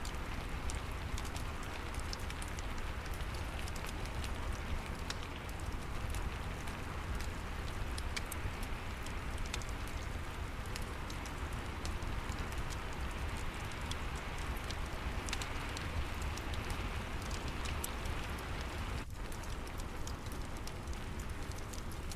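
Steady rain falling, mixed with the crackle of a wood fire in a fireplace: many small sharp pops scattered over an even hiss, with a low rumble underneath.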